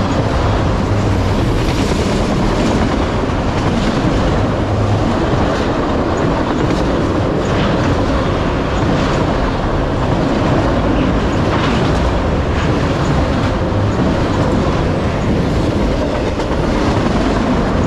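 Empty autorack cars of a freight train rolling past close by at speed: a steady loud rumble of steel wheels on rail, with repeated clicks as wheel sets cross the rail joints.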